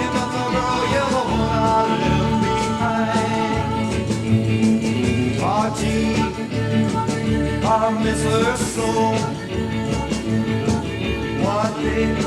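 Late-1950s country rock-and-roll record playing: a band with a steady beat, with a few rising pitch slides over it.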